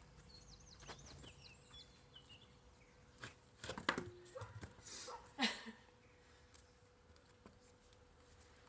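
Quiet garden ambience: a small bird chirps briefly near the start, then a handful of light knocks and rustles come in the middle of the clip while a dropped hula hoop is picked up off the ground.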